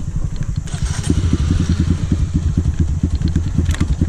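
Dirt bike engine running at low revs with a rapid, even beat; it dips briefly, then picks up again about a second in. A short clatter comes near the end.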